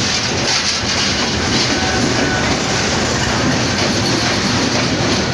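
Passenger train pulling into the platform, its locomotive and then its coaches rolling past close by in a steady, loud rumble of wheels on rail.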